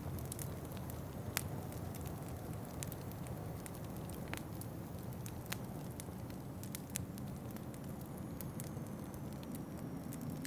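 Wood fire crackling in a fireplace: scattered sharp pops, the loudest about a second and a half in, over a steady low rumble.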